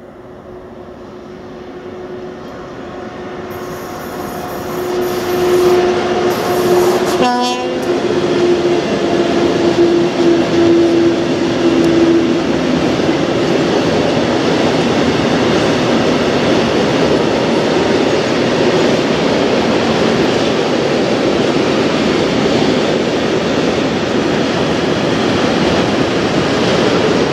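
A Škoda electric locomotive hauling a long freight train of tank wagons approaches and passes. A steady tone from the locomotive drops in pitch as it goes by, about seven seconds in. After that comes the loud, steady running noise of the tank wagons' wheels on the rails, which carries on as the wagons keep rolling past.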